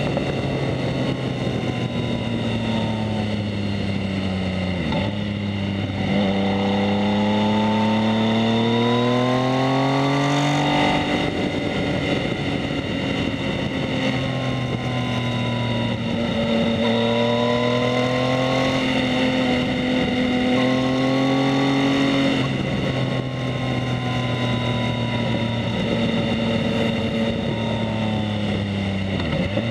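Yamaha MT-09 three-cylinder engine through a Two Brothers S1R full exhaust while riding. The revs fall and climb repeatedly, with a sharp drop about a third of the way in as it shifts up, and then stretches of steadier running with smaller dips.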